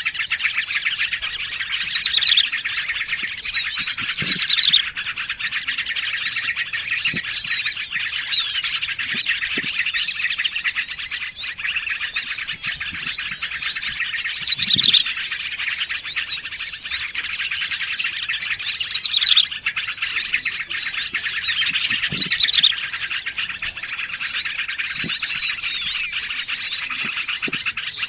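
Dense, unbroken chorus of small songbirds chirping and chattering over one another, with rapid overlapping trills and sliding notes. This is a bird-lure mix of yellow-vented bulbul, prinia and other small forest birds.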